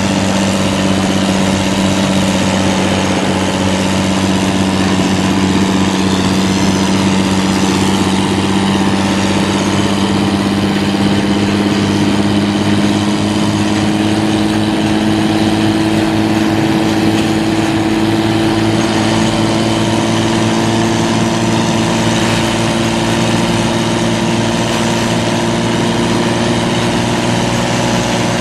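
Heavy military diesel engine running steadily, its pitch creeping slowly upward.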